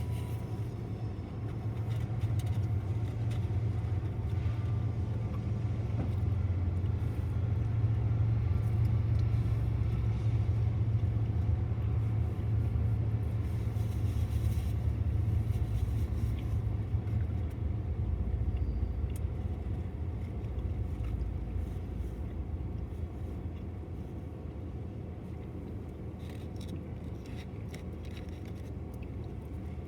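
BNSF intermodal freight train rolling past with a steady low rumble, which eases off over the last third.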